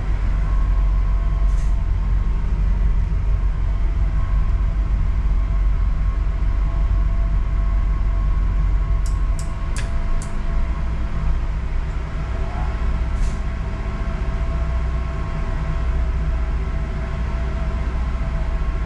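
A ship's engines and machinery droning steadily during slow manoeuvring, a deep rumble with a steady hum over it. A few short clicks come around the middle, and the deepest rumble eases slightly about nine seconds in.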